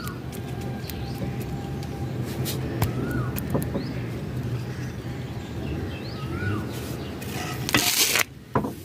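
A bird repeats a short rising-then-falling call about every three seconds over a steady low rumble, with a few faint knocks as soil is pressed down with a wooden stick. About eight seconds in, a loud, brief rustle of handling at the pot.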